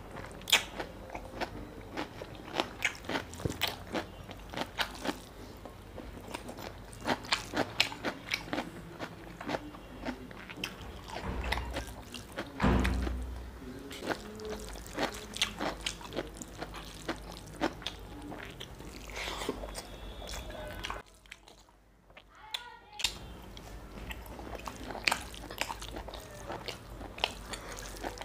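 Close-up eating sounds of a person chewing mutton curry and rice eaten by hand: wet chewing and mouth clicks, many short sharp clicks throughout. There is one louder thump about halfway through and a brief near-quiet gap about three-quarters of the way in.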